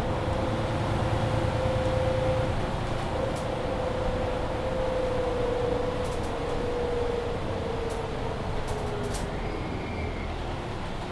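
Mercedes-Benz Citaro C2 Hybrid city bus driving, heard on board: a steady running rumble with a drivetrain whine that holds, then sinks in pitch from about seven seconds in as the bus slows. A few light clicks come near the end.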